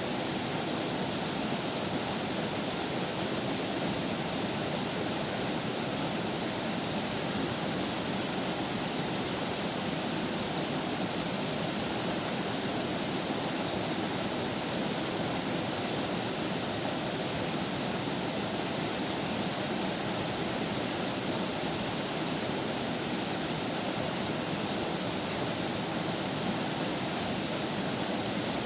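River water flowing: a steady, even rushing that does not change.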